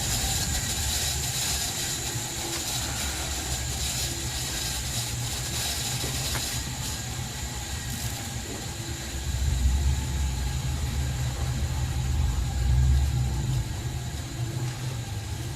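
Steady low rumble of a running engine or machine, growing louder about ten seconds in.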